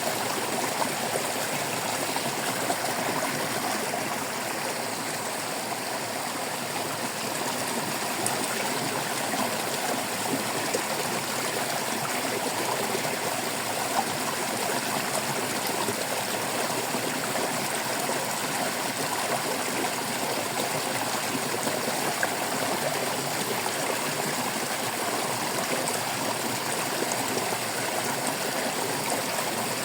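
Shallow stream babbling and trickling over stones, a steady rush of running water with small splashes and gurgles throughout.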